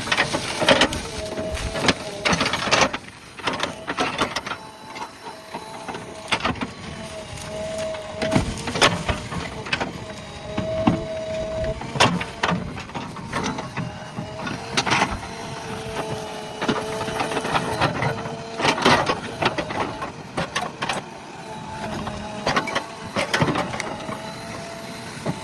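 JCB backhoe loader at work: the engine running with a whining tone that holds and shifts slightly in pitch, and many sharp knocks and cracks throughout.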